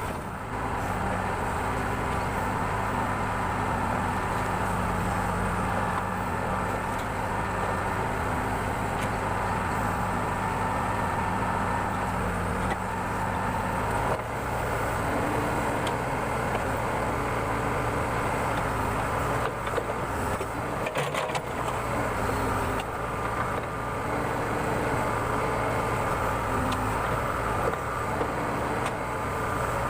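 Backhoe loader's diesel engine running steadily while the machine digs around concrete piles, with a couple of faint knocks partway through.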